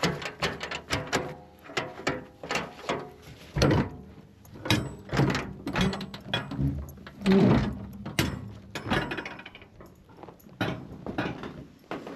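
Irregular mechanical clunks, clicks and rattles, several a second, with a couple of louder thuds, like hardware such as a latch or door being handled.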